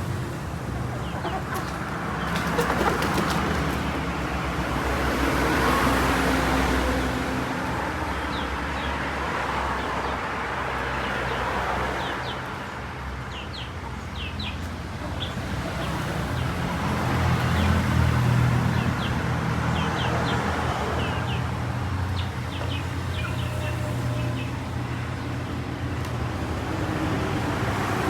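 Short, high bird chirps, many in quick succession through the middle, over steady road traffic noise that swells a few times as vehicles pass.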